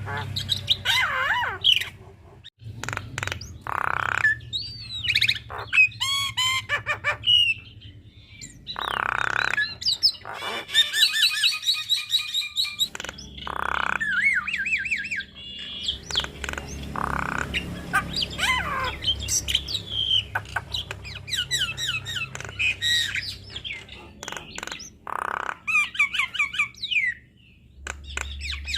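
Javan myna singing a long, varied song of whistles that slide up and down, mixed with harsh squawks and quick rattling clicks.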